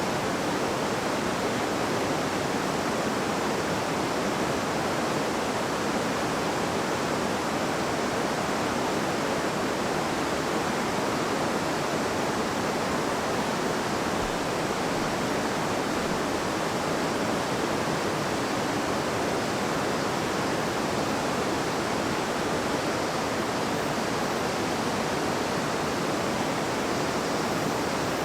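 River water flowing and babbling over stones: a steady, even rush with no change.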